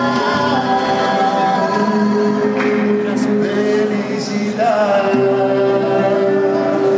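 A song sung by voices with musical accompaniment, moving through long held notes.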